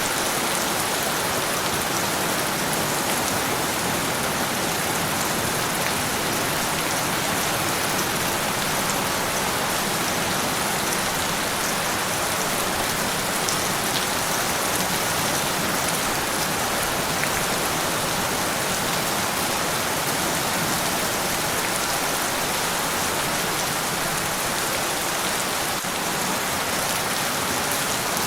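Steady, heavy rain falling on a surface, a dense even hiss with scattered individual drop ticks.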